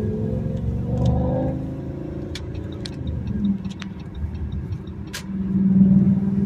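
Audi S8's V10 engine and exhaust revving: the pitch rises and falls about a second in, settles lower through the middle, then builds louder again near the end. A few short sharp clicks sound over it.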